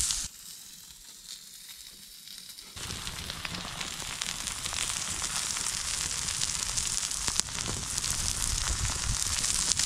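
Burger patties sizzling on a flat steel hotplate over a wood campfire, a steady frying hiss with small crackles. It is faint for the first couple of seconds, then loud from about three seconds in.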